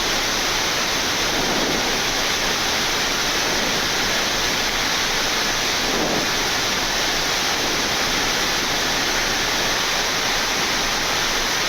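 Steady rushing noise on the flight deck of a Boeing 787-9 in the climb: airflow and air-conditioning noise, even and unbroken.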